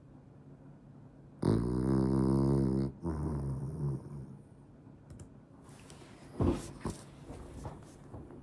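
French bulldog snoring in its sleep: one loud, drawn-out snore about a second and a half in, then a weaker one right after it, and a few small clicks or snuffles later on.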